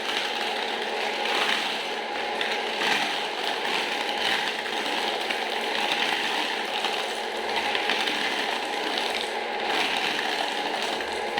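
Small electric motor and plastic gearbox of a Huina RC toy construction vehicle whirring steadily, with a light rattle.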